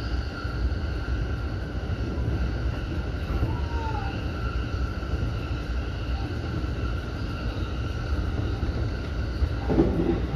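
E233-series electric commuter train running along the track, heard from inside the cab: a steady low rumble with faint steady whining tones above it. A short falling squeal comes about four seconds in, and a brief louder clatter near the end.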